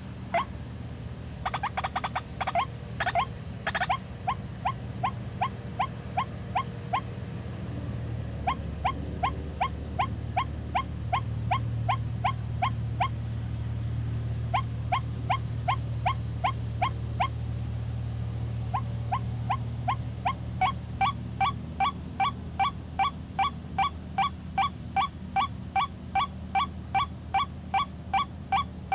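White-breasted waterhen calls: long series of short, rising notes, about two a second, broken by a few short pauses. A steady low drone runs underneath.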